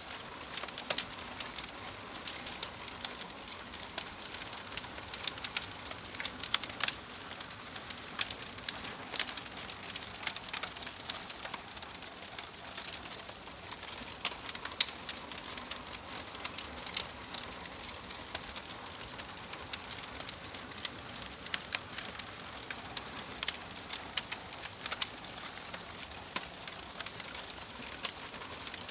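Fireplace fire crackling: a soft steady hiss under frequent irregular pops and snaps, with a few sharper, louder snaps scattered through.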